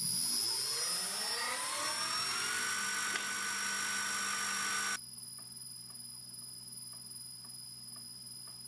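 An electric motor spinning up, its whine rising in pitch for about two and a half seconds and then running steady. About five seconds in it drops abruptly to a quieter steady hum with light regular ticking.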